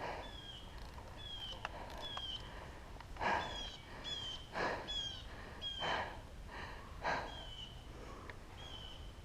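A bird repeating a short, slightly falling whistled note about once a second. Four louder breathy, rustling bursts come through the middle.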